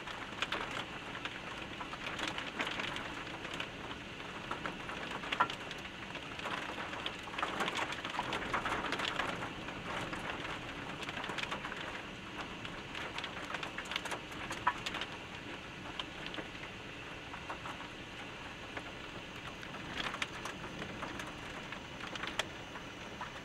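Rain falling from a thunderstorm: a steady hiss with many single raindrops ticking irregularly on a nearby surface.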